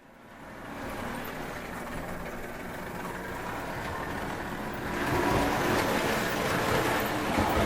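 O gauge Lionel Classics #44E electric locomotive running along the track, its motor and wheels making a steady mechanical rumble. The sound fades in at the start and grows louder about five seconds in.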